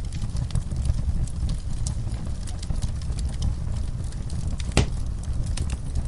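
Wood fire crackling with scattered sharp pops, one louder pop near the end, over a steady low rumble.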